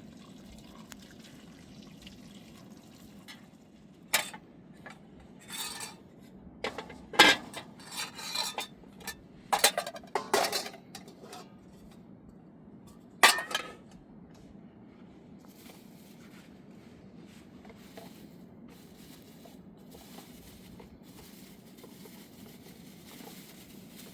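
Dishes and cutlery clinking and clattering: a string of sharp knocks and clinks through the first half, the last and one of the loudest a little past halfway, over a faint steady low background.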